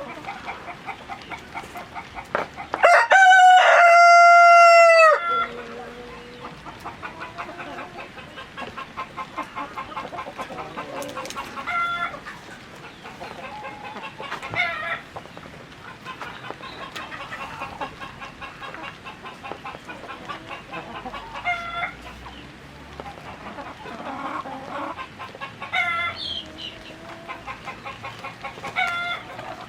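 Chickens clucking in a flock, with a rooster crowing once, loud and long, about three seconds in. Shorter squawks and calls break through now and then.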